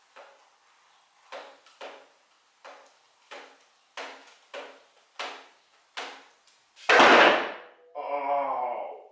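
A series of about ten sharp knocks, roughly two a second, each with a short ring. A loud, brief rush of noise comes near the end, then a second of wavering pitched sound.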